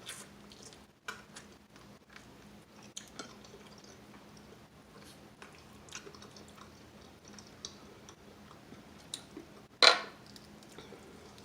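Close-up chewing of crispy fried chicken wings, with scattered small crunches and wet mouth clicks. One much louder sharp sound comes near the end.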